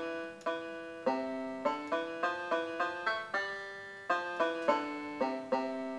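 Solo music on a plucked string instrument, picking a slow melody of single notes, each struck sharply and left to ring and fade.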